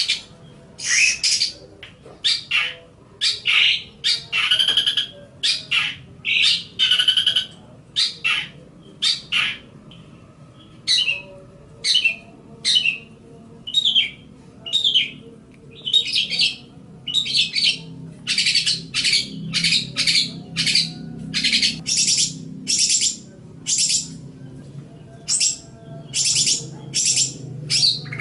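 Long-tailed shrike (cendet) singing a fast run of short, sharp, harsh chattering notes, one after another with brief gaps between them.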